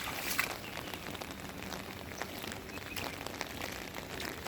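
Steady rain falling, with scattered drops ticking on an umbrella held overhead.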